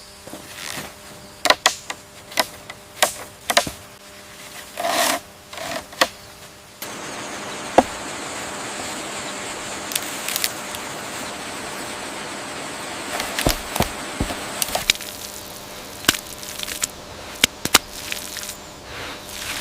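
Wood being chopped or struck: about a dozen sharp knocks and cracks. About seven seconds in it switches suddenly to a steady hiss with scattered ticks and a few knocks.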